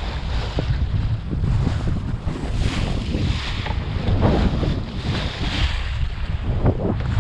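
Strong wind buffeting the microphone in gusts on a small boat at sea, with the sea washing around the hull.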